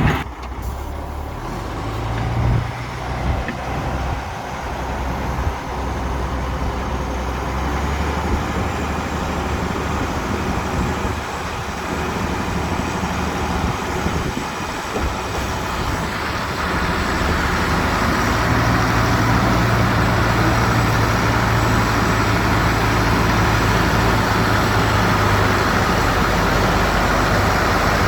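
Heavy diesel construction machine engine running steadily, getting louder and holding a steady low drone from a little past halfway.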